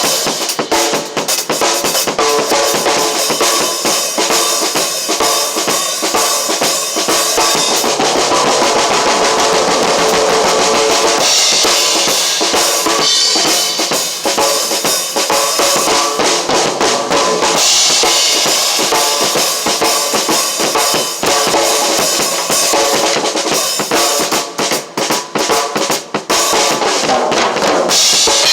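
Drum kit played continuously, with fast, dense strokes on drums and cymbals.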